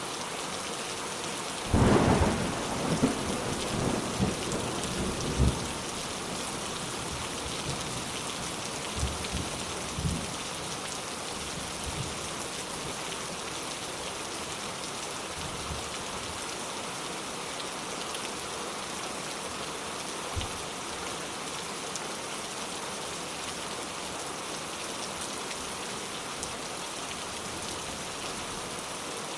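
Steady rain, with a thunderclap about two seconds in that rolls on in several rumbles for a few seconds. Fainter rolls of thunder follow later.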